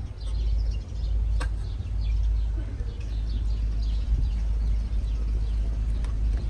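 Steady low rumble of the Jeep Grand Cherokee Trackhawk's supercharged 6.2-litre V8 idling through its Borla ATAK cat-back exhaust, with birds chirping and a single sharp click about a second and a half in.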